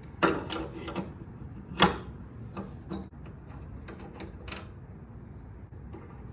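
Irregular sharp clicks and knocks from metal hose fittings and barbs being handled and fitted, the loudest about two seconds in. They thin out after about four and a half seconds.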